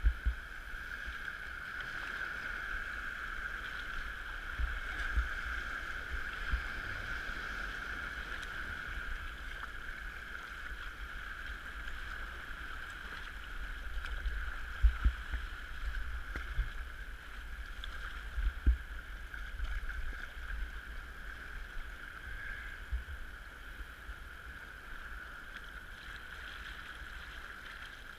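Kayak out on the sea: a steady hiss of water, with scattered low thumps, the strongest a little past halfway.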